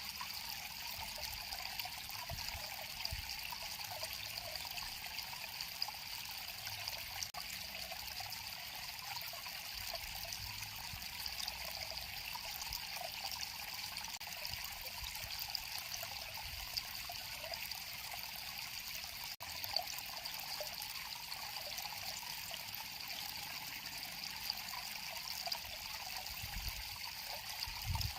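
River water flowing steadily, a continuous trickling, babbling rush.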